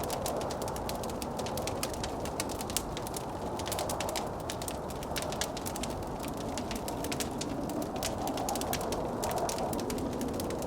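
Wood fire crackling with frequent sharp pops, over the steady low rush of blizzard wind.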